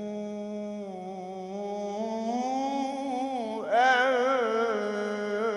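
A man's voice in melodic Quran recitation (tajweed), drawing out a long ornamented note with wavering turns in pitch. About four seconds in, it climbs higher and swells louder.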